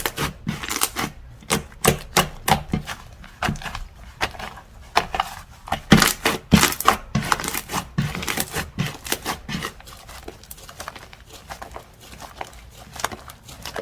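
Slime being squeezed, poked and stretched by hand, giving a rapid, irregular run of sticky clicks, pops and crackles that thin out after about ten seconds.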